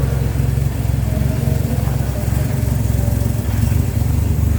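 A car engine idling steadily: a low, even rumble.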